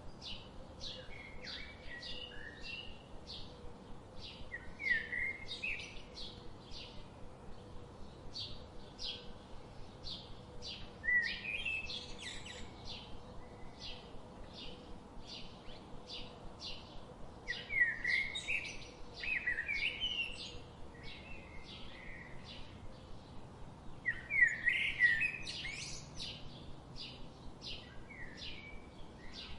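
Birds chirping: a steady run of short, high chirps about twice a second, with louder warbling phrases breaking in every few seconds.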